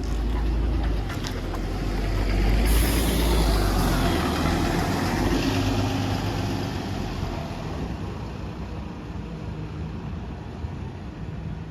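Volvo B7RLE single-deck bus pulling away, its diesel engine accelerating with a heavy low rumble. A high turbo whistle comes in about three seconds in, and the sound then fades steadily as the bus drives off.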